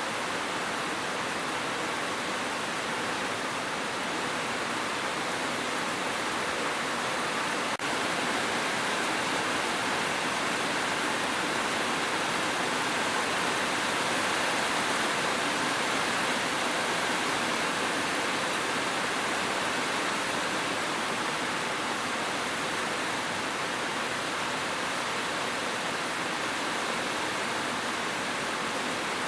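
Steady rain falling, a constant, even hiss with no individual drops standing out.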